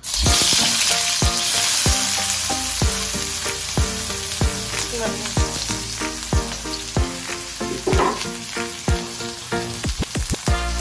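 Food sizzling and frying in a pan, with music underneath carrying a low drum beat and bass.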